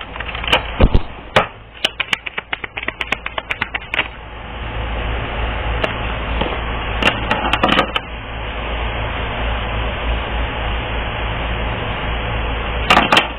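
Cards being shuffled by hand: a quick run of clicks and snaps for the first few seconds, then a steady rustle of sliding cards with a few more clicks.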